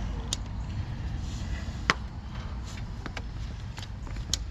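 A few short, sharp clicks and taps, the loudest about two seconds in, from meter test leads being handled against the terminals of a run capacitor. They sit over a steady low hum.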